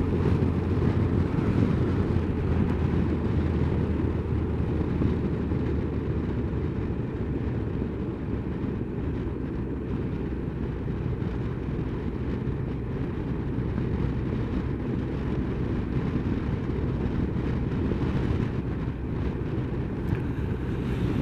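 Honda motorcycle under way at a steady speed: low engine hum mixed with a dense rush of wind and road noise that does not let up.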